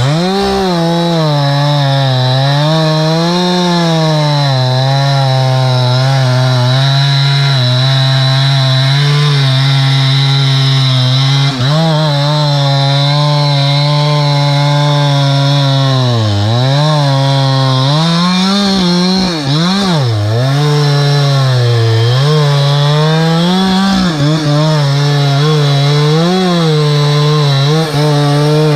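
Two-stroke chainsaw held at high revs while cutting wood, its pitch sagging and recovering over and over as the chain bites, with deeper bogs about halfway through and again later.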